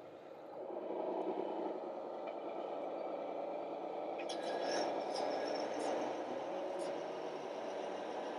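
Radio-controlled model construction machine running with a steady motor hum that grows louder about half a second in, with a few sharp clicks in the middle.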